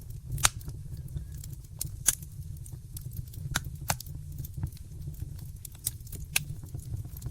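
Wood fire burning in a fireplace: a low steady roar of flames with irregular sharp crackles and pops, the loudest about half a second and two seconds in.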